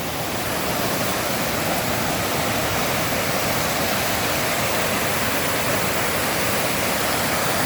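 Stream water rushing down a small cascade in a steady loud rush, a little louder after the first second.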